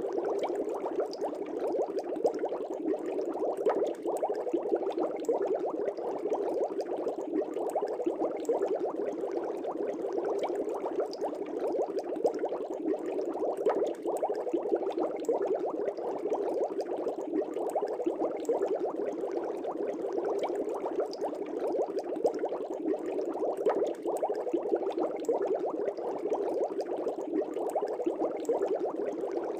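Aquarium air bubbles rising and breaking at the surface of a fish tank: a steady, dense bubbling with many small rapid pops.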